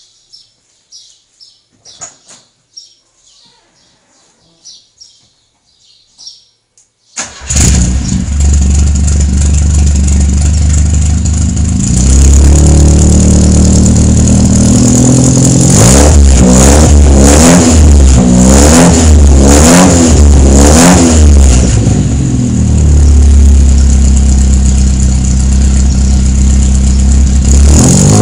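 Chevrolet Chevette 1.4 gasoline engine starting about a quarter of the way in, then idling and being revved: one longer rev, a series of short quick blips about two-thirds through, and another rev near the end.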